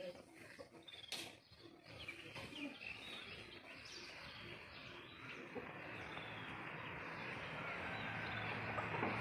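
Birds chirping faintly in the backyard, with a sharp click about a second in. From about halfway an even rushing noise builds and grows louder toward the end.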